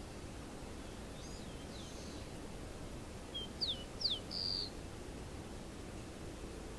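Wild birds calling: faint high chirps about a second in, then a few sharper, louder chirps around the middle, over steady outdoor background noise.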